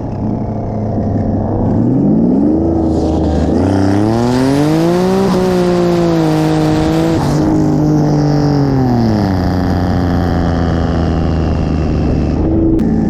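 Turbocharged car engine pulled hard in a roll race: a steady cruising note climbs in pitch for several seconds, dips at a gear change about five seconds in, and falls back to a steady lower note about nine seconds in. A faint high whine rides above the engine while it is under load.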